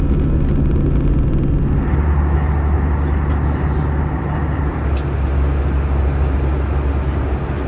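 Airbus A320 aircraft noise: a steady, loud low rumble and hum, with a broader rushing noise that rises about two seconds in and then holds.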